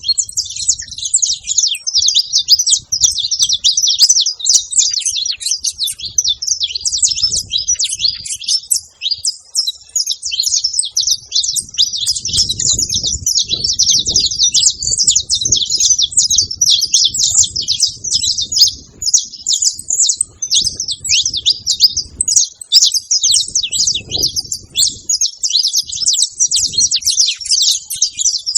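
Saffron finch (canário-da-terra) chirping in a rapid, continuous, high-pitched chatter. An intermittent low rumble runs underneath at times.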